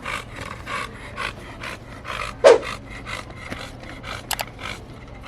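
A large American bully dog panting hard after pulling on its leash, in quick breathy puffs about two or three a second, with one louder short sound about halfway through.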